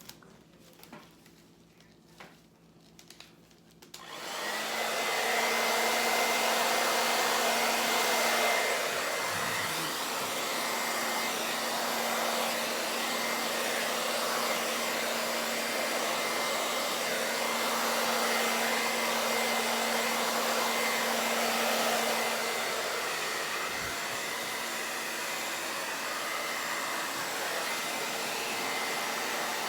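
Hair dryer switched on about four seconds in and running steadily, blowing fluid acrylic paint across a canvas in a Dutch pour. A few faint taps come before it starts.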